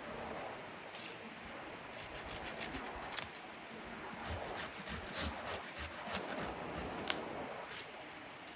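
Hand saw cutting through wood or roots: a run of uneven rasping strokes with short pauses between them.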